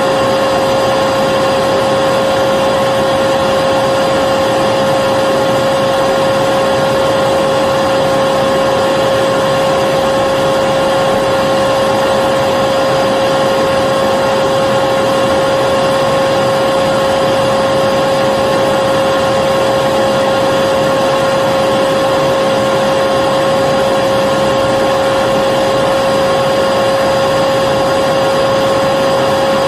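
Vacuum cleaner running steadily, its motor giving a constant whine over a loud, even rush of air.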